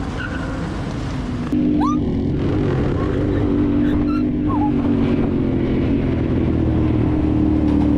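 Dirt bike engine running under way, getting louder about a second and a half in and then holding a steady pitch, with two brief high chirps over it.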